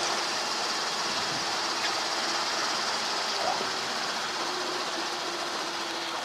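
Helicopter engine and rotor noise heard through the cockpit intercom, a steady hiss with a faint constant hum underneath.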